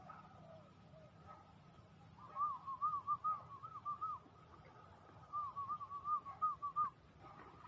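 A bird calling: two quick runs of short, arched, whistled notes, each run about two seconds long, with a pause between them.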